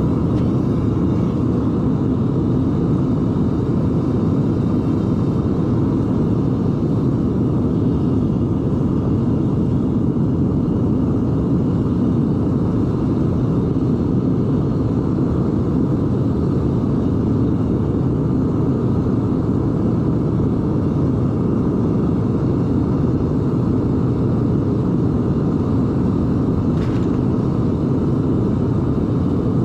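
Gas burner of a Devil Forge melting furnace running flat out, a loud, steady, unpitched roar with its weight in the low and middle range while it melts copper. A faint click comes near the end.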